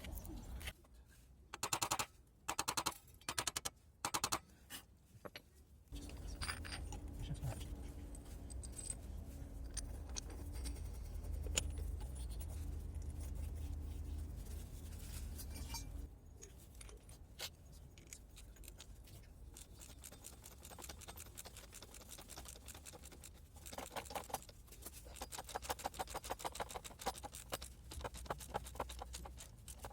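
Metal being scraped and scrubbed by hand in bursts of quick strokes, cleaning the bearing seat in a steering knuckle.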